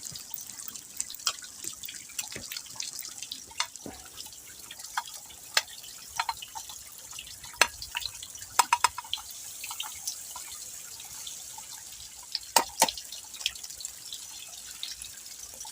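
A small waterfall trickling steadily, with irregular drips and plops of falling water over the top.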